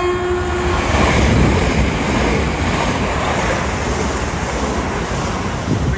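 Pair of Class 375 electric trains passing through the station at speed: a loud, steady rush of wheels and air. A held horn note starts just before and fades out about a second in.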